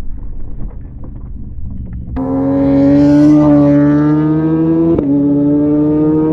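Gravel crackling and scraping as the crashed Honda CBR600F slides to a stop. About two seconds in, a steady high engine note starts suddenly and slowly rises in pitch: the fallen bike's inline-four is still running on its side.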